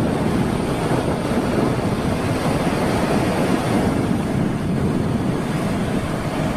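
Strong wind buffeting the microphone over the rush of surf breaking on a sandy beach, a loud, steady rumble with no let-up.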